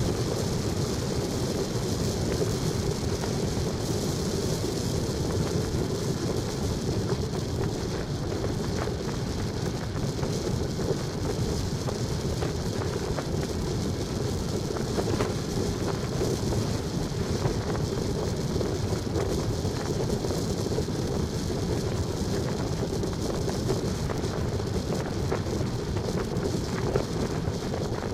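Steady noise of a vehicle driving, an even run of road and wind noise with no breaks.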